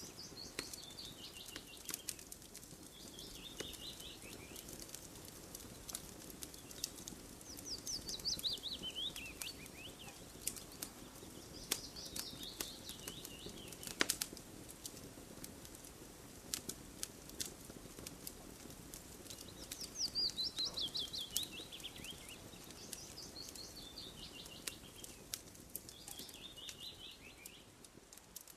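Campfire crackling with frequent sharp pops, the loudest about halfway through, while a bird sings a short falling series of chirps every few seconds; the sound fades near the end.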